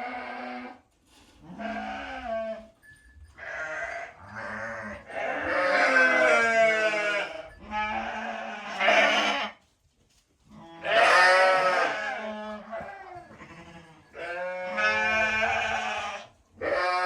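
Sheep bleating again and again: about eight calls, some short and several long and quavering.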